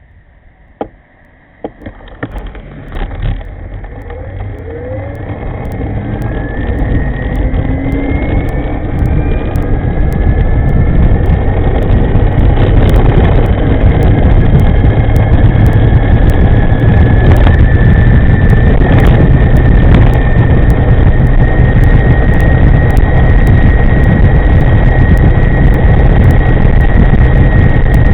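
E-moving electric scooter pulling away and gathering speed: a couple of clicks, then a rising whine and rushing wind noise that build over about ten seconds and stay loud and steady.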